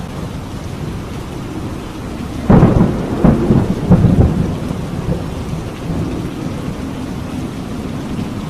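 Steady rain during a thunderstorm. A sudden thunderclap breaks about two and a half seconds in and rumbles in several loud peaks for nearly two seconds before the rain takes over again.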